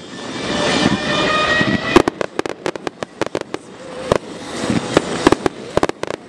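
Fireworks display: a hissing rush swells for the first two seconds, then a loud bang and quick runs of sharp crackling reports.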